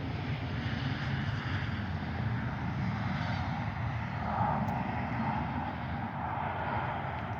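A steady, distant engine drone that swells slightly midway, with no woodpecker tapping or calls standing out.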